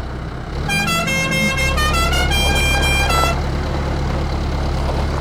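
A vehicle horn sounding a quick run of honks at several different pitches for about two and a half seconds, like a tune, over a steady low engine rumble that starts about a second and a half in.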